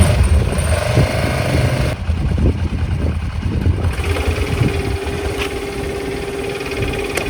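Kawasaki KLE500 parallel-twin motorcycle engine running just after starting, rough and uneven at first. It settles into a steadier hum about four seconds in.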